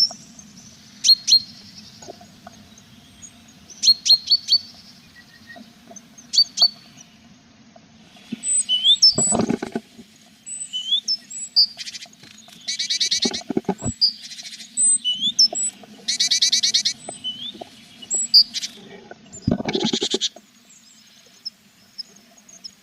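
Tit nestlings in a nest box giving short high chirps and, three times, bursts of rapid buzzy begging calls, with a few low thumps and scrapes of movement inside the box.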